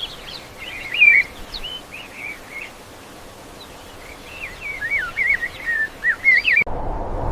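A small bird singing quick, warbling chirps and whistles in two runs over a steady background hiss. About 6.7 seconds in it cuts off abruptly to a louder rushing noise.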